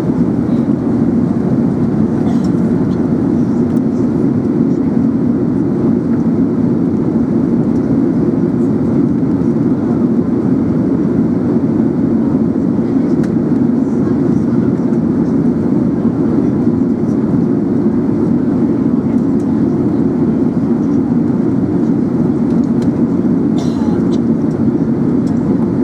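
Steady cabin noise inside an Airbus A380 in flight: an even rush of airflow and engine drone, strongest in the low-middle range, with no change in level.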